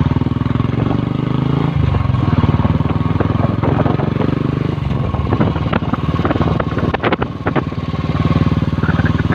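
Motorcycle engine running under way, a steady low pulsing note that shifts pitch about two seconds in, with a few clicks and knocks about five to seven seconds in.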